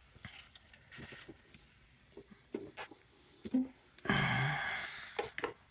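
Faint clicks and taps of a collector tin and its contents being handled, with a brief voiced sound, like a hum or breath, about four seconds in.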